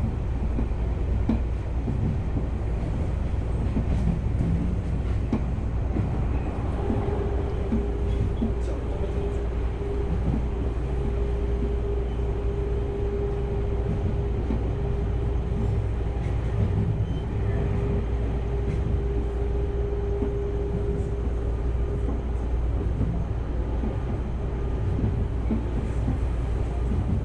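Commuter electric train running at speed, heard from inside the carriage: a steady low rumble of wheels on rail. A steady whining tone joins in about seven seconds in and fades out near the end.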